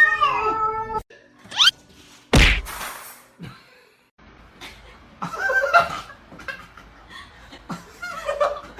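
A cat's drawn-out meow that cuts off about a second in, then a single sharp whack, followed by scattered light laughter and voices.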